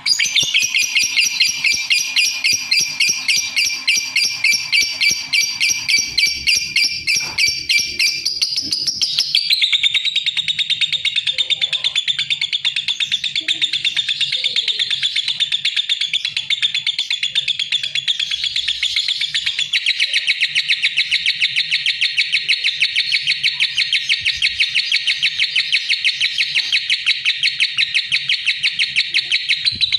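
Lovebird chattering in a rapid, unbroken stream of high chirps; the song starts abruptly, drops to a lower pitch about nine seconds in and changes pattern again about twenty seconds in.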